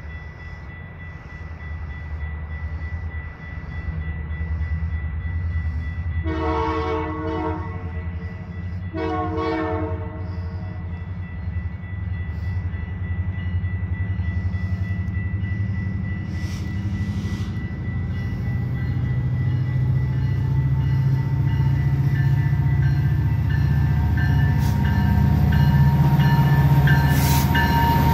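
Canadian Pacific Holiday Train's diesel locomotive approaching, its low engine rumble steadily growing louder. It sounds two horn blasts, about six and nine seconds in, the first about two seconds long and the second a little shorter.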